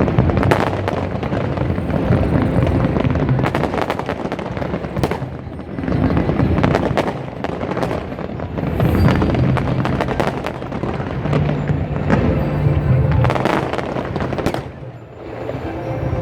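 Fireworks display: a rapid, continuous run of bangs and crackling shell bursts, with music playing underneath.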